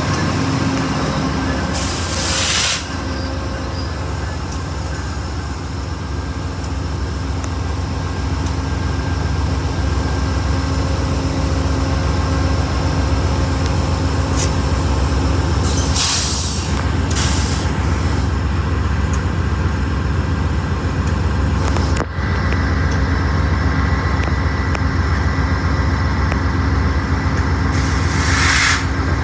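Via Rail P42DC diesel locomotive running steadily while standing, with four short bursts of air hissing from the air brakes.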